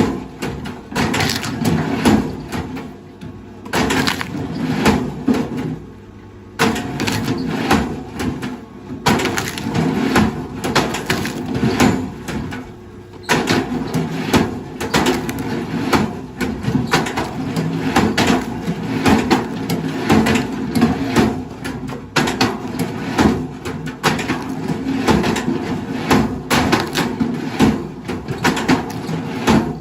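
Wood cracking and crunching in dense, irregular snaps as heavy machinery breaks it up, over a steady low hum, with a short lull about six seconds in.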